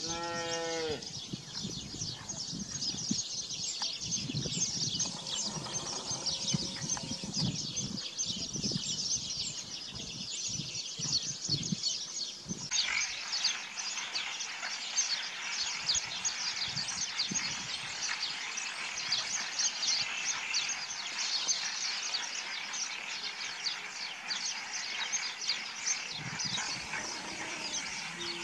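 A sheep bleating once at the start and again at the very end, over a dense chorus of small birds chirping; the chirping thickens about halfway through.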